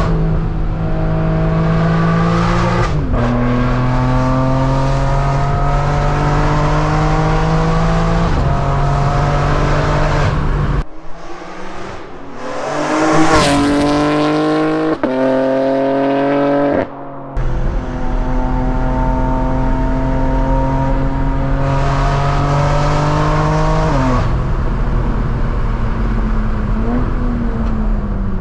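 BMW G80 M3's twin-turbo inline-six pulling hard, its pitch climbing through each gear with quick upshifts about 3 and 8 seconds in. Midway the car rushes past from outside, the pitch rising and then falling as it goes by. It then pulls again and eases off, the pitch falling near the end.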